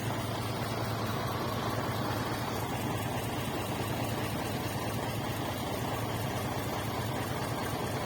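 Scania 140's 14-litre V8 diesel engine idling steadily.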